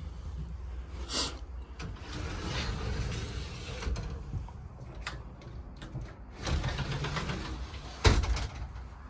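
Travel-trailer closet doors being handled and slid, with rubbing and scraping, then a sharp knock near the end.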